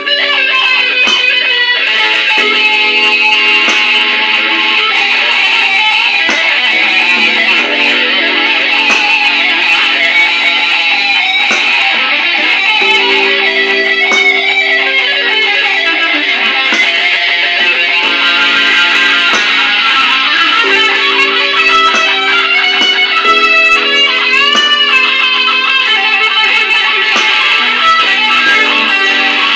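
Electric guitar played through a DigiTech effects unit: a blues lead in three with bent notes over held chords underneath.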